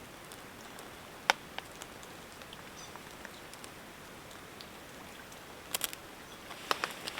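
Light rain pattering steadily, with one sharp loud click a little over a second in and a few smaller clicks and knocks near the end.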